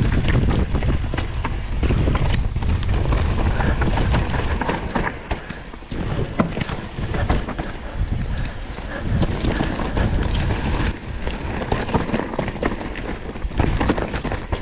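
Wind buffeting the microphone and a mountain bike rattling down a rough downhill trail, with tyres on rock and roots and many sharp knocks from the chain and frame. The heavy wind rumble eases about five seconds in, while the clattering goes on.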